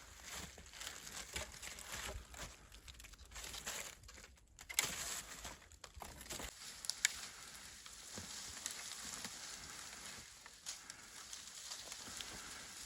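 Irregular rustling and crinkling, as of dry material being handled, with a few sharp snaps, settling into a steadier faint crackle in the last few seconds.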